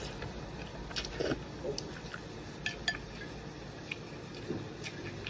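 Eating utensils clinking against dishes and the pot during a hot pot meal: half a dozen short, light clinks spaced irregularly, with a brief low murmur of voice about a second in.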